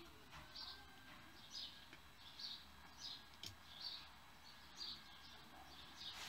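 Faint bird chirping: a short high note repeated about once a second, with one light click about halfway through.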